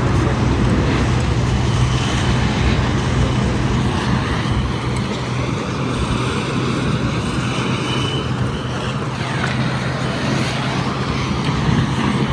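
Steady vehicle noise: a constant low engine hum under an even rush of road or traffic noise.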